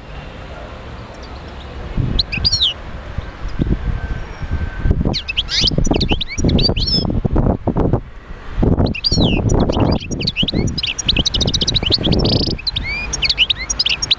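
European goldfinch singing: a fast twittering song of quick chirps and trills in bursts, starting about two seconds in, over a low rumbling background noise.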